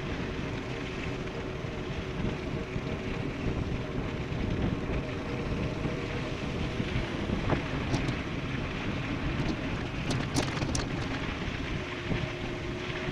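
Wind rushing over the microphone and tyre noise of an e-bike descending at speed, with a faint steady whine that fades early and comes back near the end, and a few sharp clicks about ten seconds in.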